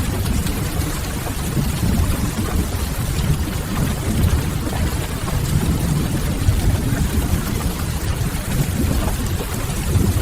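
Steady rain ambience with a deep, even rumble and faint scattered crackles of a wood fire.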